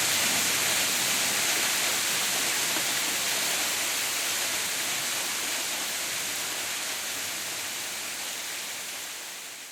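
Waterfall rushing in a steady hiss of falling water, gradually fading out toward the end.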